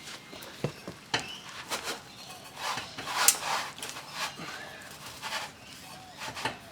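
Irregular clinks and knocks of hand tools and metal exhaust parts during fitting of an aftermarket exhaust, with the loudest knock about three seconds in.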